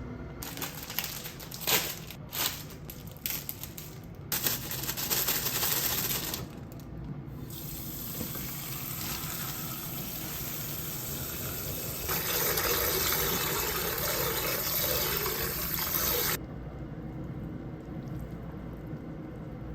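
Water tap running into a sink, with a few knocks and clatters in the first seconds. The flow grows louder about 12 seconds in and stops suddenly about 16 seconds in.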